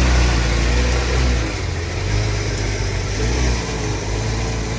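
A vehicle engine running steadily with a strong low hum, a broad hiss over it.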